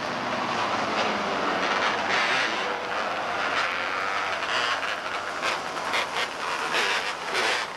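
Small open-wheel race cars' engines running on the track, making a steady, dense din with a few brief surges.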